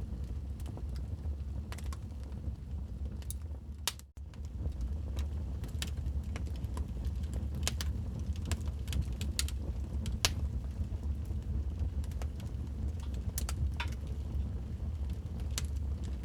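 Wood fire in a fireplace crackling: irregular sharp pops and snaps over a steady low rumble. The sound cuts out for a split second about four seconds in.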